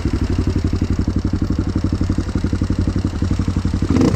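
Motocross bike engine idling with a quick, even pulse, with a short blip of the throttle near the end.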